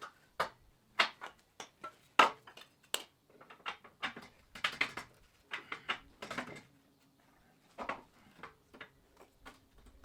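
Irregular clanks and knocks of steel parts being handled, louder in the first half and quieter near the end.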